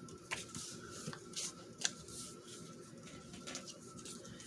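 Faint rustling and light taps of paper scraps being handled and sorted, a handful of short sharp clicks scattered through, over a faint steady high hum.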